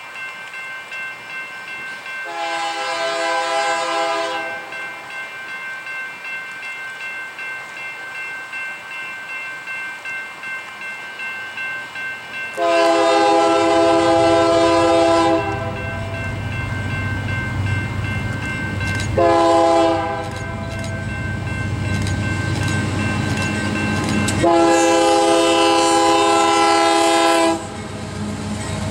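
Union Pacific diesel locomotive's multi-note air horn blowing the grade-crossing signal: long, long, short, long. The locomotive's engine rumble grows louder from about halfway as it approaches.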